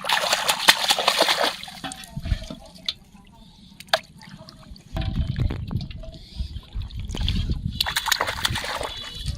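Water splashing: a loud splash lasting about a second and a half at the start, and another just before the end, with low sloshing and rumbling between them.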